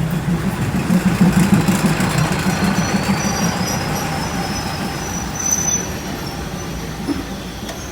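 Train moving slowly along the market track, a steady low engine drone with rail rumble that is loudest a second or two in and then slowly fades.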